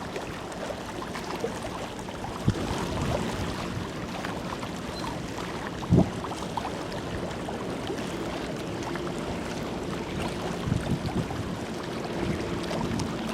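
Steady outdoor wind and water noise, broken by a few short low thumps. A faint low engine hum from a ship comes in after about nine seconds.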